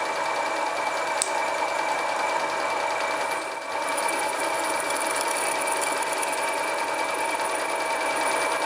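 Homemade mini lathe with a 1 hp, 750 W single-phase motor running steadily, a constant whine with several pitches; the level dips briefly about three and a half seconds in.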